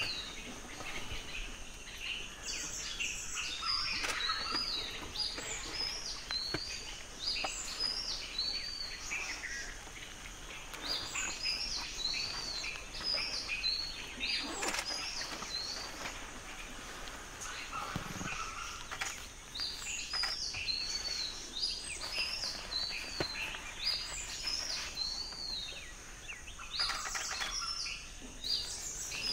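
Birds singing, with groups of short high chirping notes repeated every few seconds over a faint steady high hiss.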